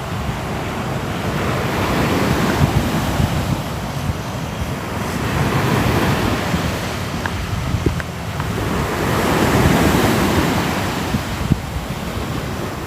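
Ocean surf: waves washing in and breaking, swelling and falling back about every four seconds, with wind rumbling on the microphone.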